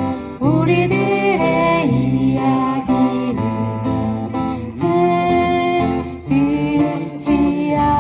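Acoustic guitars strummed in accompaniment to singing of a Korean folk song, the sung line holding and bending long notes.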